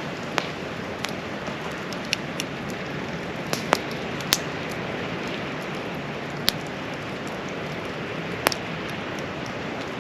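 Hardwood campfire burning with a steady hiss and irregular sharp pops and crackles, a few louder snaps through the middle.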